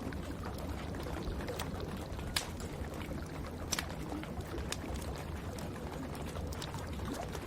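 Wood fire crackling, with scattered sharp pops over a steady hiss of rain and a low rumble. The loudest pop comes a little over two seconds in.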